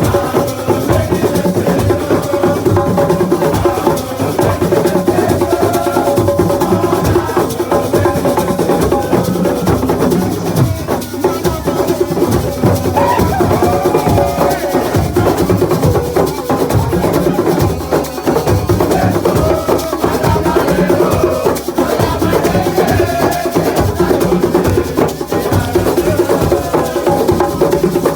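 Assiko music: drums beaten in a fast, steady rhythm while voices sing over them.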